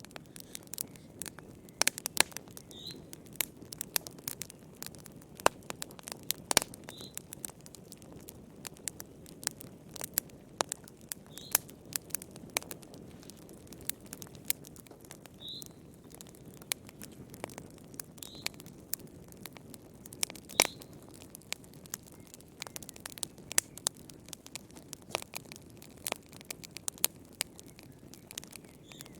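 Wood fire crackling: irregular sharp pops and snaps, some much louder than others, over a low steady rush of burning. A brief high squeak comes every few seconds.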